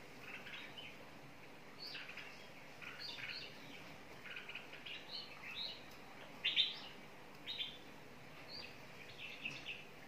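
A flock of small birds chirping: short, scattered calls overlapping one another, the loudest a pair of calls about six and a half and seven and a half seconds in.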